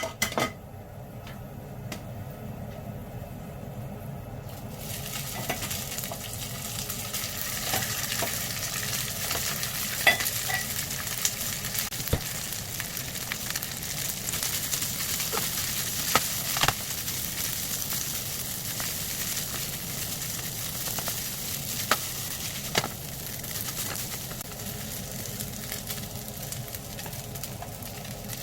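Food sizzling in a hot frying pan, the sizzle starting about four seconds in and running on, with occasional knocks of a utensil against the pan.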